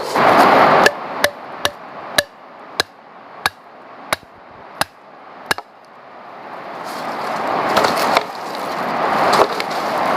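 About nine sharp knocks, like chopping strokes, spaced slowly wider apart over the first five seconds, then a rushing noise that swells toward the end.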